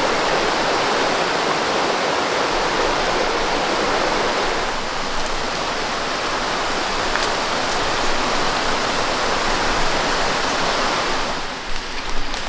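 Steady rush of water. Near the end it turns to an uneven pattering with a low rumble.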